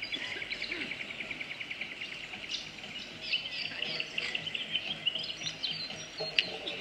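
Birds chirping outdoors, with a fast run of short, high, ticking notes in the first few seconds and scattered higher chirps after that.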